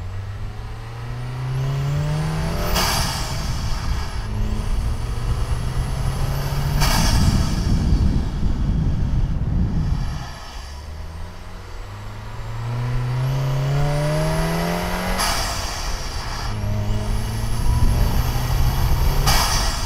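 Volkswagen Golf Mk7 1.8 TSI turbocharged four-cylinder, fitted with a Racingline R600 intake, accelerating through the gears twice. The engine note climbs in pitch with a faint rising turbo whistle, and a short whoosh of released boost comes at each lift for a shift, four in all.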